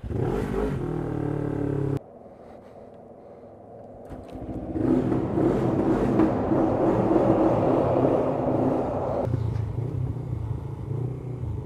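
Honda CBF500 parallel-twin motorcycle engine running, heard in cut-together clips: a couple of seconds of engine sound that stops abruptly, then a louder spell of several seconds that drops back to a lower, steadier running note near the end.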